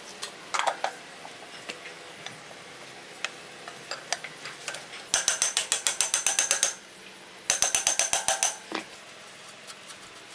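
Ratchet wrench clicking in two quick runs of about nine clicks a second, a little over a second each, near the middle of the stretch, with scattered taps of tools around them.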